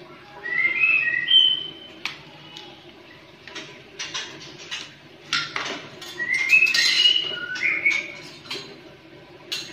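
A bird singing two short phrases of whistled notes that step up and down in pitch, about a second in and again from about six to eight seconds in. Between the phrases come light clicks and scrapes of a utility knife and steel ruler on a PVC ceiling panel.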